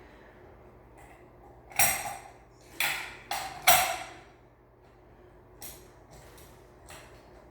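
Metal knocking against metal: four sharp clanks within about two seconds, each ringing briefly, followed by a couple of light clicks, as tools and fan hardware are handled.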